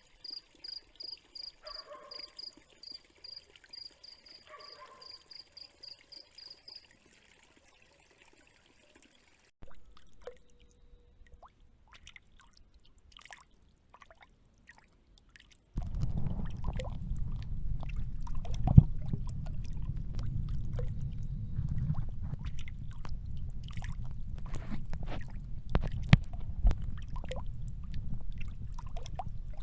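A cricket chirps steadily, about three chirps a second, and stops about seven seconds in. After a quiet stretch with faint drips and clicks, a louder, low, dull water sound with scattered clicks and splashes comes in suddenly about sixteen seconds in and continues.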